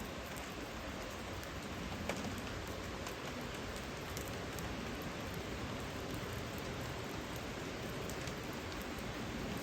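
Steady rain falling, with scattered drops ticking on a surface and one sharper drip about two seconds in.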